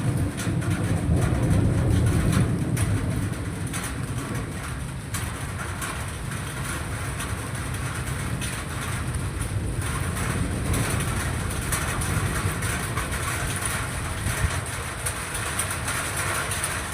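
Thunder rumbling, swelling about a second in and fading slowly into a long low roll, over a steady hiss.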